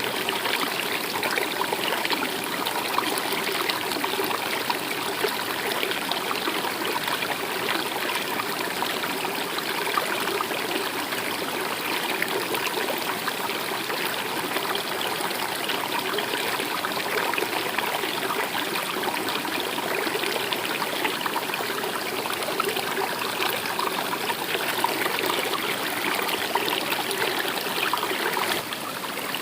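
Stream water running and trickling steadily over stones, dipping briefly just before the end.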